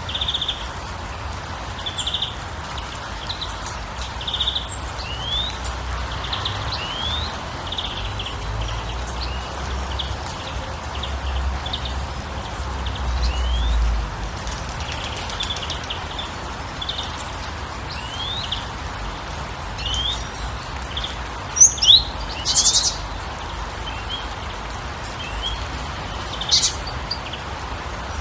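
Wild birds chirping in short, repeated calls and quick rising notes over a steady background hiss, with louder high trills about two-thirds of the way in and again near the end.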